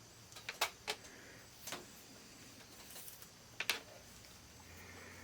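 A handful of sharp, irregular clicks from handling a plastic analog multimeter, five or six in all, spaced unevenly.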